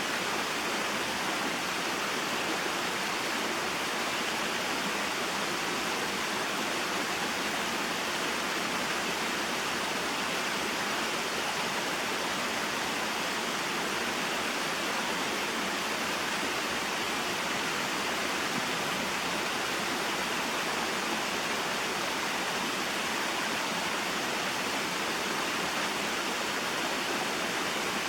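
Small mountain waterfall and stream: a steady, even rush of falling and flowing water.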